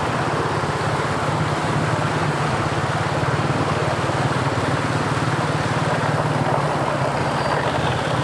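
Motorcycle engine running steadily at low revs, with a constant rush of road noise.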